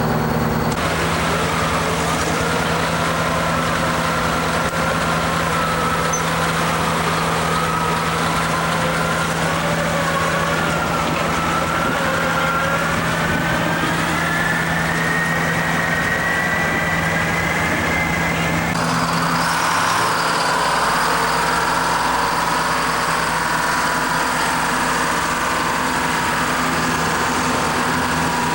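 Large truck engine running steadily, with a whine that slowly rises in pitch; about two-thirds through the sound changes abruptly and carries on steady.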